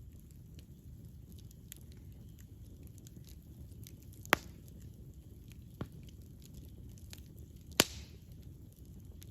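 Campfire burning with a low steady rumble and faint crackles, broken by two loud sharp pops of burning wood about four and eight seconds in and a smaller one between.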